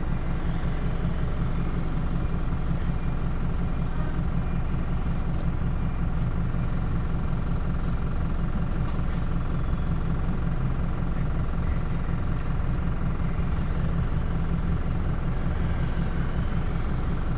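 City bus engine running steadily: a low, even hum with faint steady tones above it.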